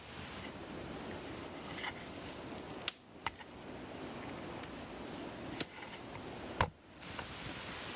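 A steady hiss of outdoor background noise with a few single sharp knocks from food preparation: one about three seconds in, another near six, and the loudest just before seven seconds.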